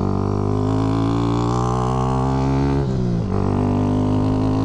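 Motorcycle engine running with a steady drone, its pitch creeping slightly upward, then a brief break in the note about three seconds in before it settles back into a steady drone.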